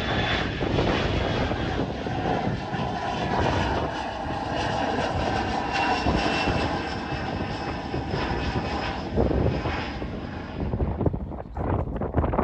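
Aircraft engines running loud and steady, with thin whining tones over the noise. About ten seconds in the high end fades away, leaving gusty wind buffeting the microphone.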